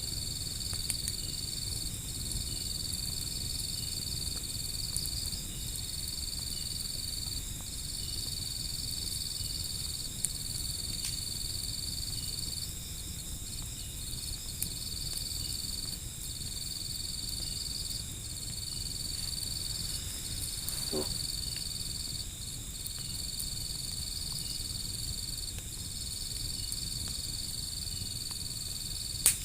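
Crickets trilling steadily in a high-pitched chorus, breaking off briefly every few seconds, over a low rumble of a wood fire with a few sharp crackles.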